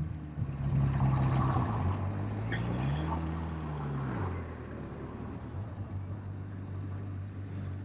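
Yamaha XJ600S motorcycle engine running under way, its pitch rising and then falling once about three seconds in, with wind noise over the microphone.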